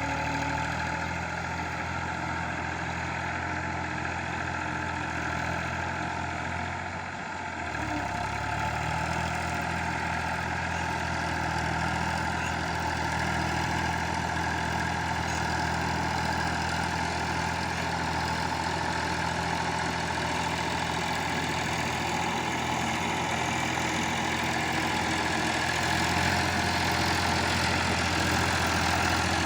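Escort tractor's diesel engine running steadily; its note dips briefly about seven seconds in, then picks back up and holds.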